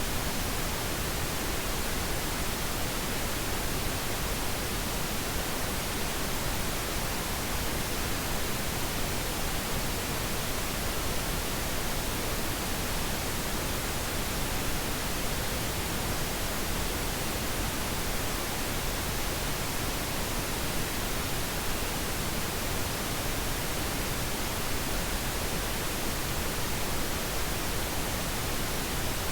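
Steady pink noise: an even, unchanging hiss spread across the whole range.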